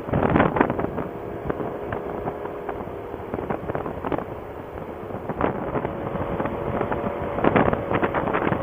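Motorcycle running at road speed, its engine hum under heavy wind buffeting on the microphone that comes and goes in gusts.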